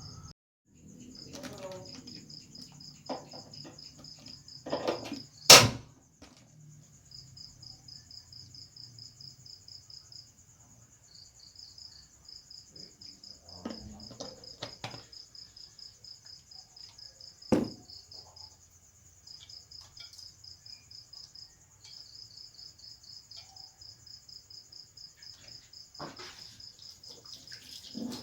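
Crickets chirping in long trains of evenly spaced high pulses over a steady high insect trill. A few sharp knocks and some scraping of a stone mortar and pestle grinding spices break in, the loudest about five seconds in and another past the middle.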